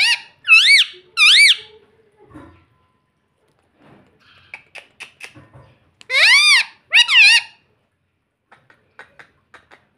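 Pet parrot giving high-pitched, swooping two-note calls twice, with soft clicks in between.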